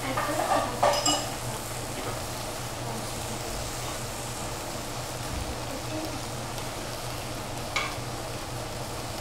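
Chard and tofu sizzling in an oiled pan, with a spatula stirring and clinking against the pan in the first second and one sharp click near the end. A steady low hum runs underneath.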